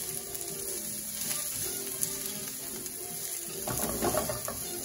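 Diced vegetables sizzling in hot oil in a stainless steel skillet, stirred with a wooden spatula, over soft background music.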